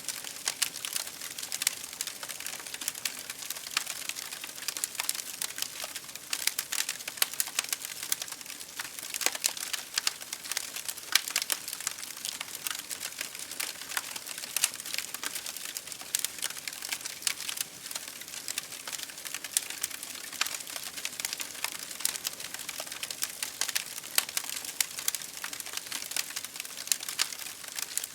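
Campfire burning with a steady hiss and many small, irregular crackles and pops.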